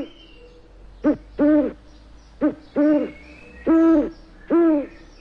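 A bird giving a series of six hooting calls. Each is a clear, pitched note that rises and falls. They come in short-then-long pairs, followed by two longer hoots.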